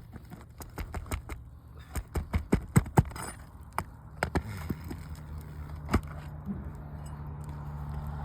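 Sharp clicks, taps and scrapes from working at a brittle roof shingle to free a nail, the shingle tearing as it is worked. A steady low engine hum grows in the background from about five seconds in.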